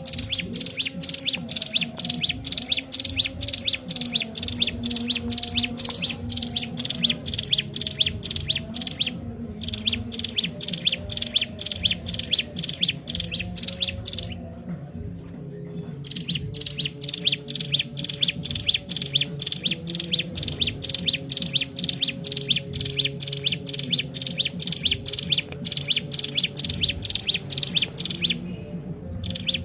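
Ciblek gunung (mountain prinia) singing hard, a fast unbroken string of short high chirps at about four a second, with a short break about a third of the way in, a longer two-second pause near the middle, and another short break near the end.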